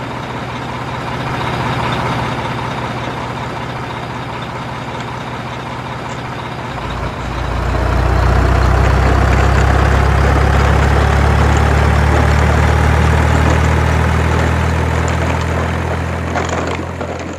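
Heavy truck engine sound effect running steadily, louder from about seven seconds in, with a faint rising whine as it pulls away.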